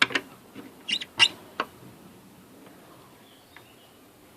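Guinea pig squeaking: a few short, sharp high-pitched squeaks in the first two seconds, then a faint thin high note.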